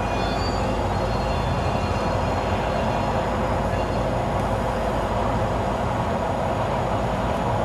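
A train passing on the rails, a steady rolling noise from its wheels, with faint high-pitched squealing tones early on.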